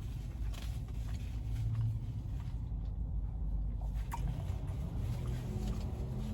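Steady low rumble of a car's cabin, with faint scattered clicks and rustles over it.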